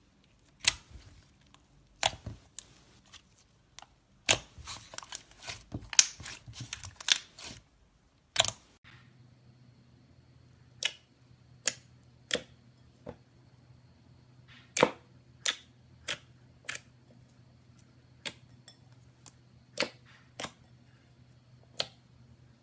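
Slime being squeezed and poked, giving sharp popping clicks as air pockets burst. The pops come in quick clusters for the first eight seconds or so, then more sparsely, about one a second, over a faint steady hum.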